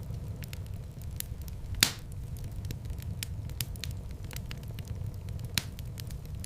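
Wood fire crackling in a fireplace: a steady low rumble of flames under scattered sharp crackles, with one loud pop about two seconds in and another near the end.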